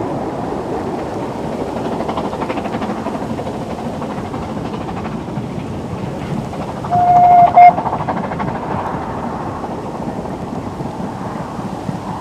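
Narrow-gauge steam train running, a steady rush of noise with wind on the microphone. A short steam whistle blast sounds about seven seconds in and is the loudest thing.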